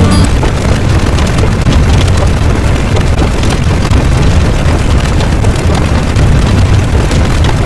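Loud, continuous rumbling noise, heaviest in the low end, with no clear pitch or rhythm.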